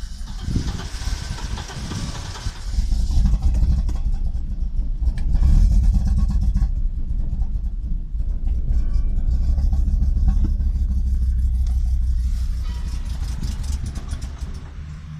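Audi Coupe's AAR five-cylinder engine running rough and misfiring, a fault that appeared after it replaced the original NG engine. The sound gets louder about three seconds in and dies down near the end.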